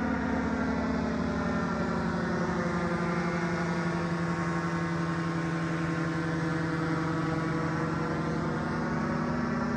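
An engine running at a steady speed, its hum holding an even pitch throughout.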